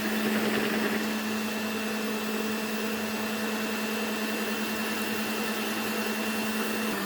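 Electric hand mixer running steadily at one speed, beating eggs and oil in a bowl.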